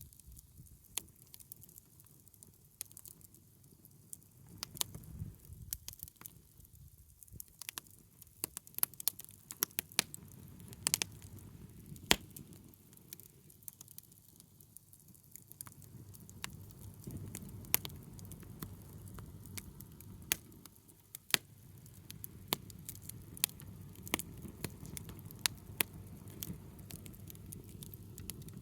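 Wood fire crackling: sharp, irregular pops and snaps over a steady low rumble of burning flames.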